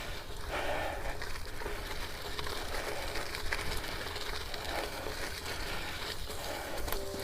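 Gravel and dirt crunching on a steep trail during a climb with mountain bikes, a steady run of small crackles and scuffs. Music comes in at the very end.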